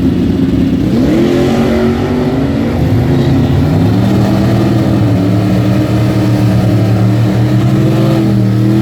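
Drag racing car's engine at full throttle, accelerating down the strip, its pitch climbing about a second in and stepping higher a couple more times.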